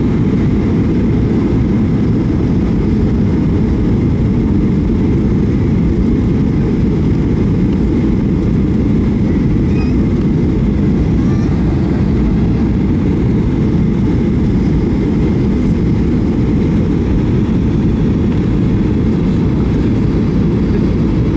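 Airliner cabin noise heard from inside the plane: steady, loud, low engine and airflow noise with a faint constant whine above it.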